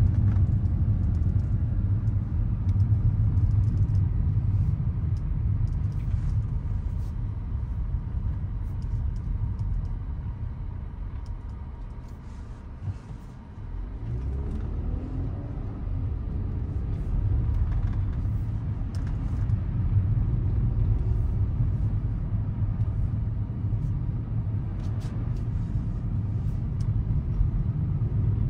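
Low road and tyre rumble inside the cabin of a 2024 Volkswagen Atlas driving on snowy roads. The rumble eases about halfway through, and then the engine note rises over a few seconds as it speeds up again.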